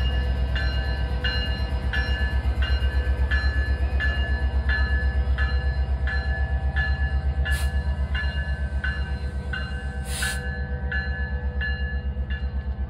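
Canadian Pacific diesel locomotive rumbling, with a railway bell ringing steadily about three strokes every two seconds. Two short hisses come about halfway through.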